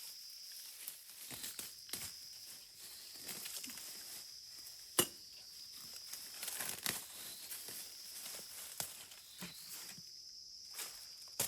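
Scattered rustling and crinkling handling noises with a sharp click about halfway through, over a steady high drone of insects.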